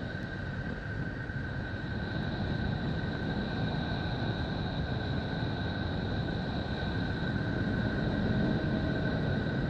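A space 'planet sound' drone: a steady rumbling hiss with two thin, high, held tones over it, growing slowly louder.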